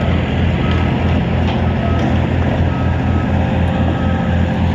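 Heavy diesel equipment running with a low, pulsing drone while its backup alarm beeps about once a second.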